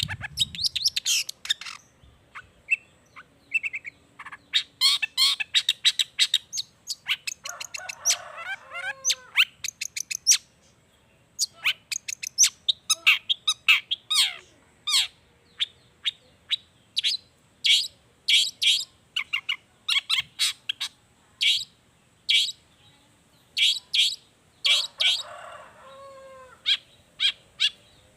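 Long-tailed shrike (cendet) singing a fast, varied run of sharp high chirps and mimicked calls. Two lower, harsher chattering phrases come in about eight seconds in and again near the end.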